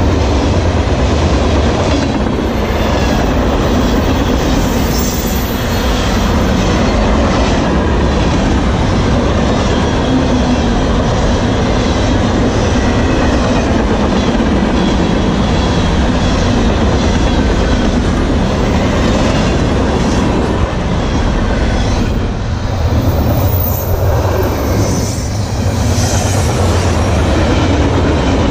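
CN freight train's cars rolling past close by: a steady heavy rumble of steel wheels on the rails with recurring clatter over rail joints. Brief high-pitched squeals rise over it near the start and again about 23 seconds in.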